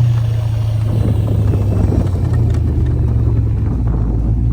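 LS V8-swapped snowcat running steadily through deep snow, a strong low engine drone with the tracks quiet in the snow.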